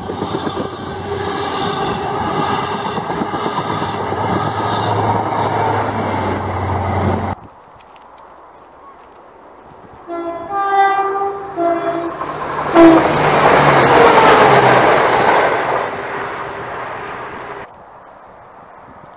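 An HST moves along the platform with a steady diesel hum and rumble of wheels, which cuts off suddenly about seven seconds in. After a short lull, an approaching train sounds its horn in a few short notes, then passes loudly for about five seconds before the sound drops away.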